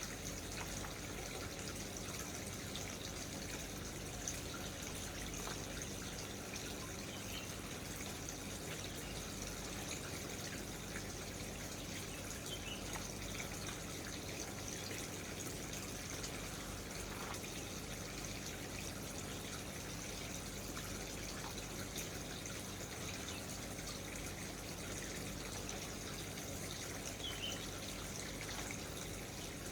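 Steady running or trickling water, even throughout, with a few faint short chirps now and then.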